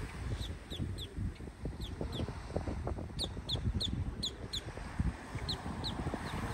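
A bird calling in loose runs of short, high notes that each slur downward, a dozen or so in all, over a low rumble of wind on the microphone.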